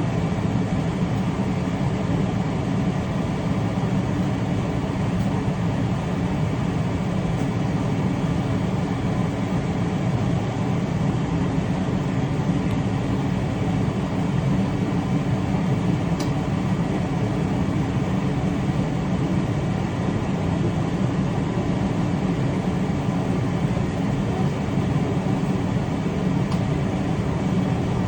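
Steady running noise of a moving train, a low, even drone that holds at one level throughout.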